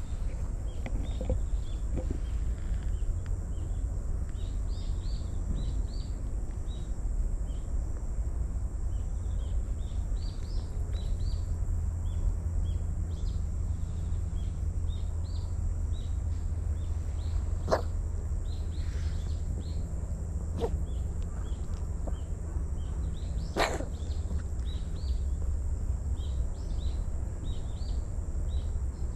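Small birds chirping over and over in short calls, over a steady low rumble. A few sharp clicks near the middle.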